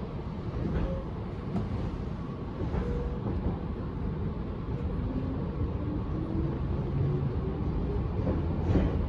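Tobu 10030 series electric train pulling away and gathering speed, heard from inside the car: steady rumble of wheels on rail, with a motor whine rising in pitch over the second half.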